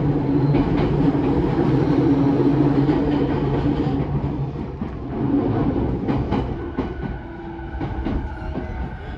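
JR E217 series electric commuter train running, heard inside the car: a steady hum of motors and rolling wheels that grows quieter after about four seconds. Then comes a few sharp clacks of wheels over rail joints and points, with faint thin whining tones near the end.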